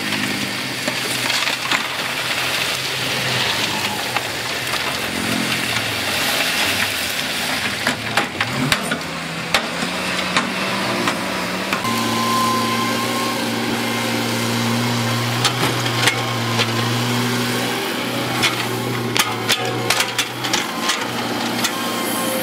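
Diesel engine of heavy earthmoving equipment running under load, its pitch shifting for a few seconds and then holding steady from about twelve seconds in. Scattered sharp knocks and clatter of rock run through it.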